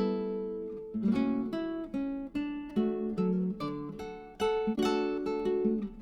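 Background music of plucked acoustic guitar, chords and single notes struck and left to ring, at a gentle, unhurried pace.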